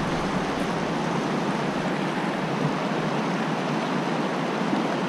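Fast-flowing creek current rushing steadily.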